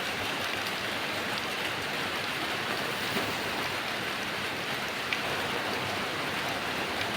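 Heavy rain falling steadily, an even hiss with scattered drop impacts.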